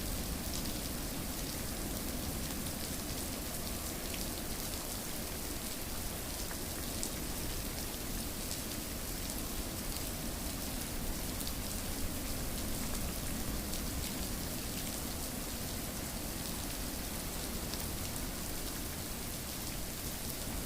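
Steady rainfall: an even hiss of rain with many fine drop ticks scattered through it.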